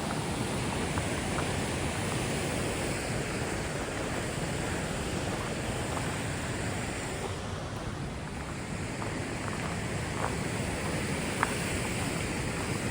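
Steady rushing of river rapids, with a few faint light clicks on top.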